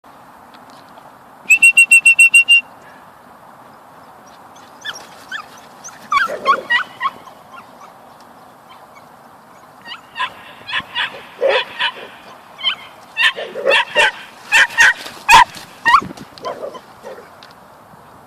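Squeaker in a cookie-shaped dog toy: a quick run of about nine even, high squeaks near two seconds in. Then many short, irregular squeaks of shifting pitch in the middle and later part, as an Irish Terrier chews it.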